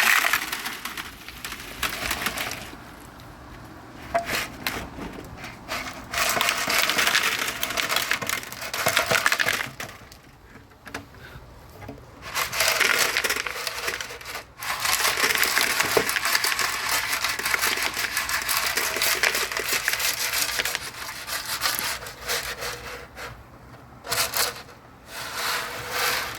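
Loose nuts and rust scale rattling and scraping inside a steel motorcycle gas tank as it is tipped and shaken to empty it of rust-remover solution. The noise comes in several long bouts with short pauses between.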